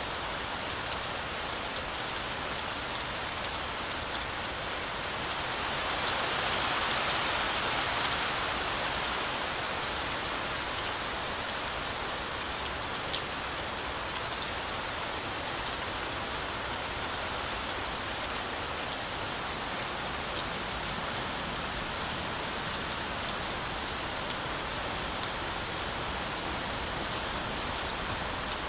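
Heavy rain falling steadily through a forest canopy, a dense even hiss of drops on leaves and ground. The rain swells louder for a few seconds about six seconds in, then settles back.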